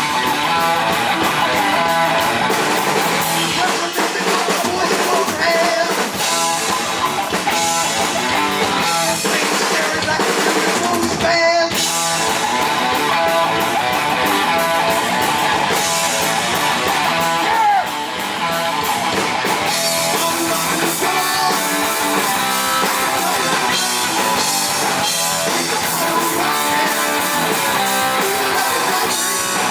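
Heavy metal band playing live: distorted electric guitars over a driving drum kit, loud and unbroken throughout.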